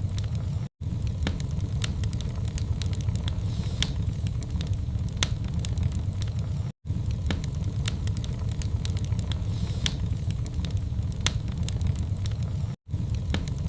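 Wood fire burning in a fireplace: a steady low rumble with frequent sharp crackles and pops. The sound cuts out for an instant three times, about every six seconds.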